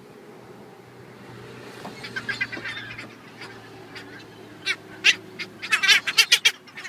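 Gulls calling: scattered harsh squawks start about two seconds in, then a rapid, louder burst of short squawks comes near the end.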